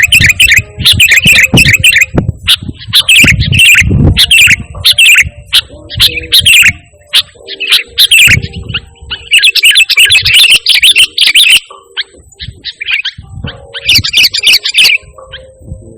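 Sooty-headed bulbul (kutilang) singing loudly in fast runs of chirping notes, broken by short pauses about seven and twelve seconds in. A low rumble sits under the first few seconds.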